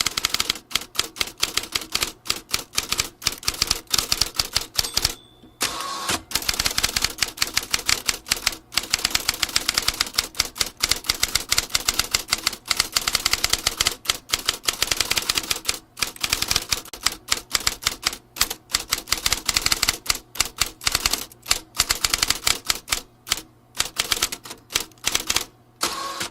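Vintage typewriter keys striking in fast, continuous runs of typing, many strokes a second, with a short break about five seconds in.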